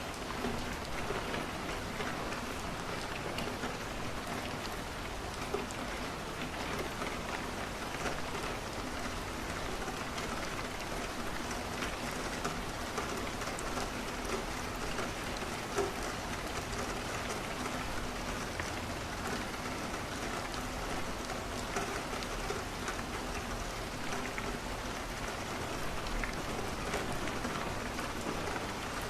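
Steady rain falling on a window, an even hiss with scattered small clicks and pops from a crackling wood fire in a fireplace.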